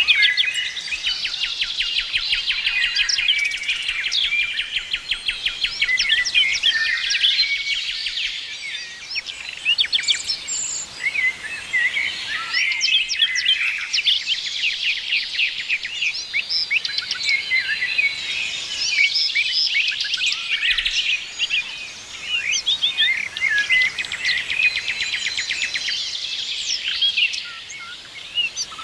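A chorus of several songbirds singing and chirping over one another, with fast trills of rapidly repeated notes among the chirps.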